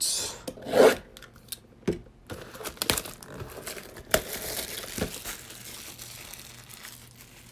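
Plastic wrapping on a box of trading cards being torn open and crinkled. There is a run of sharp crackles and rustles that thins out and fades after about five seconds.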